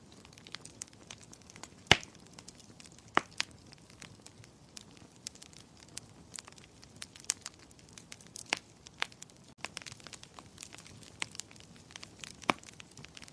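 Wood fire crackling in a fireplace: irregular sharp pops and snaps over a low soft hiss, the loudest pop about two seconds in.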